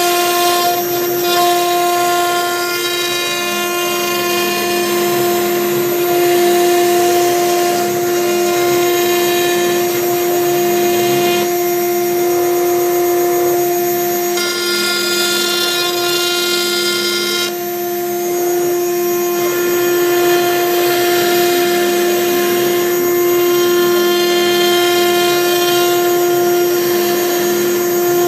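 6090 CNC router's spindle running with a steady high whine while a V-bit engraves letters into MDF. Fainter tones from the axis motors rise and fall in pitch as the machine traces curves, and the tone of the cut shifts a few times.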